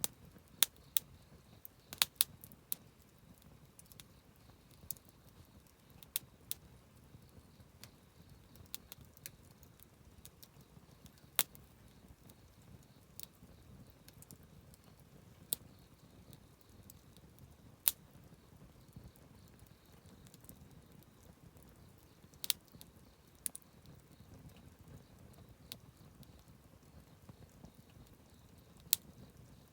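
Wood campfire crackling, with sharp irregular pops and snaps every second or few over a low steady rumble.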